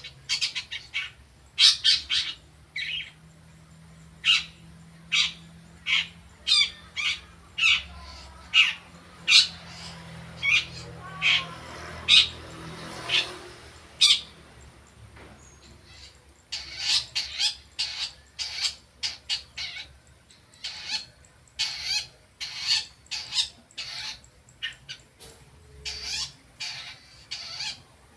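Long-tailed shrike (cendet) calling in short repeated notes, about one a second at first, then after a brief pause a faster, denser run of notes: a bird practising and learning new sounds.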